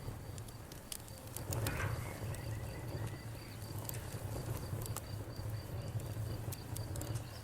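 Bonfire crackling, with sharp pops and snaps over a steady low rumble, while a cricket chirps in a regular high-pitched pulse repeating several times a second.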